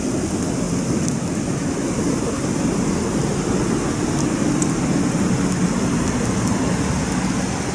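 Campfire burning: a steady noise with a few sharp crackles now and then.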